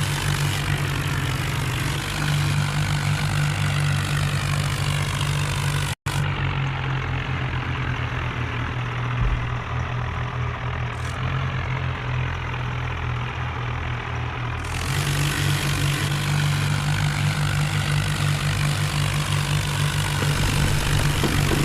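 Tractor's diesel engine running steadily with a deep, even drone, broken by a brief dropout about six seconds in.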